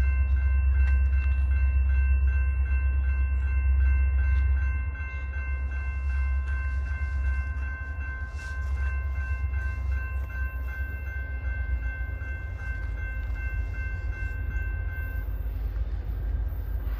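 Train passing a grade crossing: a heavy low rumble, loudest for the first five seconds, under a crossing bell ringing at a steady two to three strikes a second. The bell stops about fifteen seconds in.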